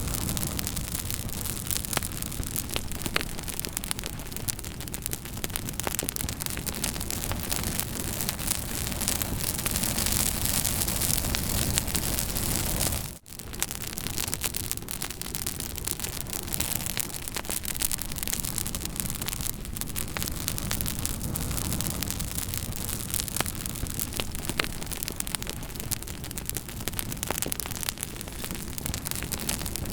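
Campfire burning, with a steady hiss and many sharp crackles and pops. The sound drops out almost completely for an instant about thirteen seconds in.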